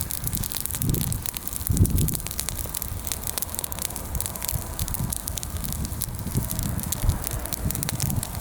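Bonfire of freshly pruned, mostly green branches burning, with many irregular sharp crackles and pops over a low rumble.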